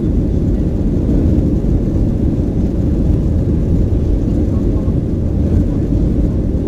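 Steady low rumble of engine and airflow noise inside the cabin of a Boeing 737-900 with CFM56-7B engines.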